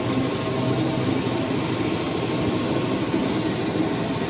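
The Berkeley's triple-expansion engine running steadily, giving a continuous mechanical hum with a low, even drone.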